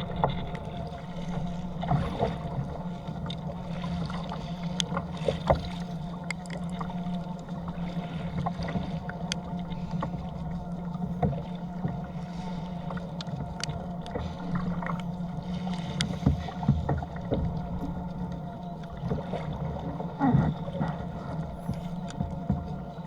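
Water splashing and slapping around a fishing kayak in choppy sea, with scattered sharp taps and knocks and a steady low hum underneath.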